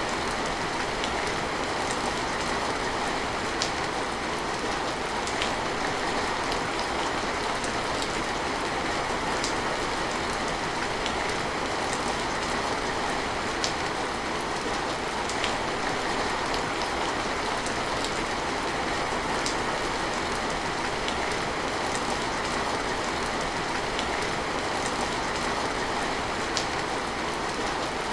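Steady rain falling, an even hiss with scattered individual drops clicking sharply on nearby surfaces.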